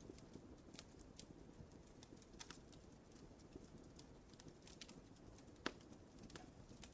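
Wood fire crackling in a fireplace: quiet, irregular small snaps and pops over a low steady rumble, with one sharper pop near the end.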